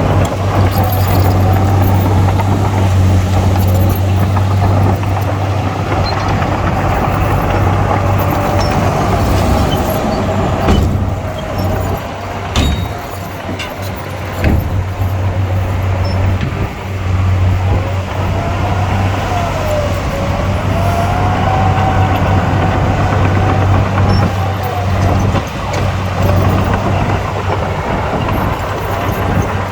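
Heavy diesel machinery running under load, a steady low engine drone with a whine that rises and falls. The drone eases off for a few seconds about halfway through, with a few sharp knocks.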